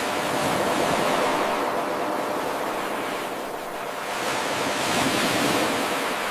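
Ocean surf washing in, a rushing hiss that swells and ebbs twice. At the very start the level jumps suddenly where the eight-second loop of the recording restarts.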